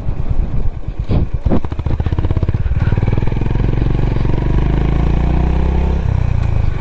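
Honda H'Ness CB350's air-cooled single-cylinder engine running slowly with uneven pulses and a couple of sharp knocks, then pulling steadily from about three seconds in as the motorcycle picks up speed after speed breakers, with a change in engine note near the end.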